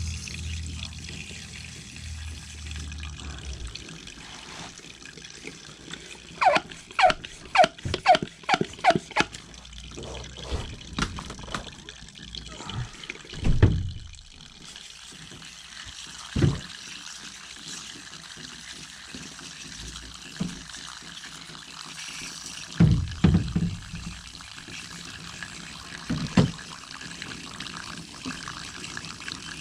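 Water spraying and trickling as an air-conditioner coil is rinsed after a foaming coil cleaner. About six seconds in there is a quick run of short, sharp sounds, and a few low thumps follow later.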